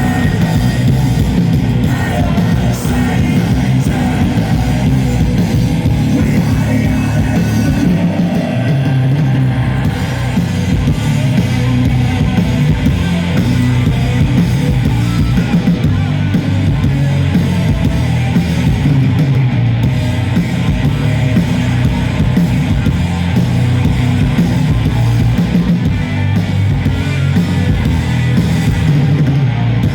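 Stoner doom metal band playing live: loud, distorted guitars, bass and drums in a dense, bass-heavy wall of sound.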